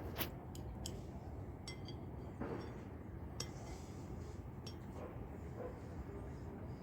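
A few short, sharp clicks and clinks scattered irregularly over a steady low background rumble.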